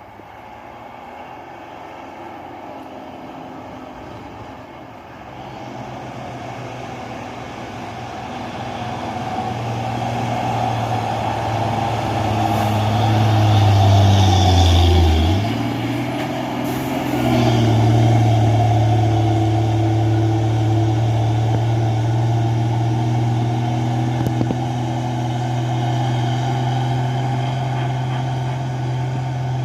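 Loaded diesel dump truck's engine labouring up a climb. It grows louder as the truck draws near, and its note sinks under load near the middle. After a brief dip it comes back higher and runs steadily.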